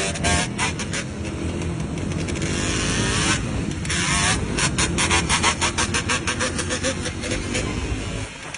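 Motorcycle engine running and revving, the level dropping away at the very end.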